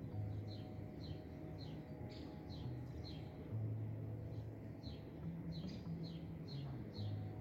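Birds chirping: short, quick falling chirps, roughly two a second with a brief pause midway, over soft background music of long held low notes.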